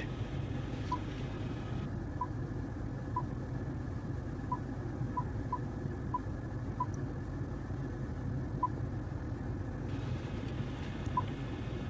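Steady low rumble inside a car's cabin, with about ten short, faint beeps at uneven intervals.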